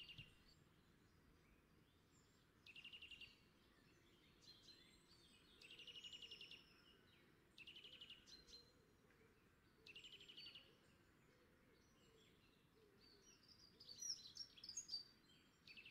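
Faint bird song: a short, rapid trill repeated about every two to three seconds, with a few scattered chirps near the end, over an otherwise quiet background.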